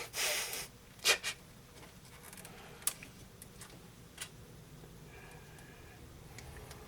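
Rustling and a few sharp plastic clicks as PC power-supply cables and their connectors are handled and pushed into place inside a computer case. A short rustle just after the start, then scattered single clicks.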